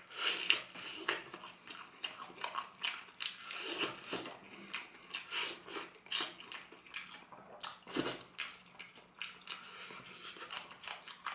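Biting into and chewing a fried chicken wing: an irregular run of crunches and sharp mouth clicks.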